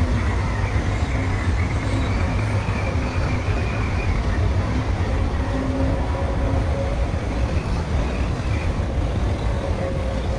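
Heavy diesel earthmoving machinery running steadily, a deep, continuous engine rumble with a faint whine above it.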